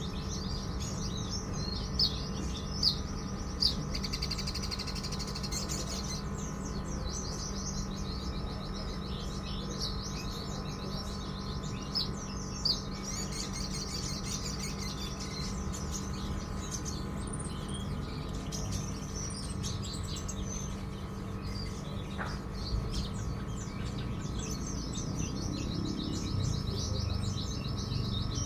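Small songbird singing in rapid, high chattering trills, repeated in runs throughout, over a steady low hum, with a few sharp clicks in the first few seconds.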